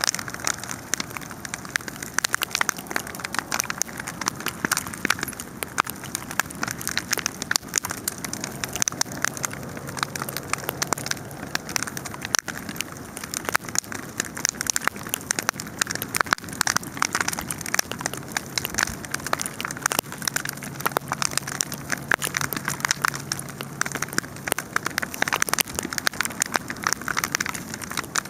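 Wood campfire burning, with dense, continuous crackling and popping.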